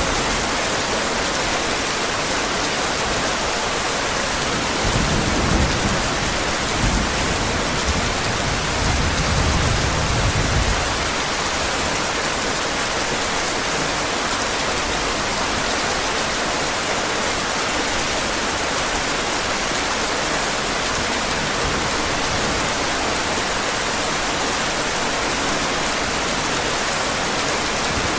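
Steady heavy rain falling, an even hiss, with low rumbles of thunder about five seconds in and again from about eight to eleven seconds.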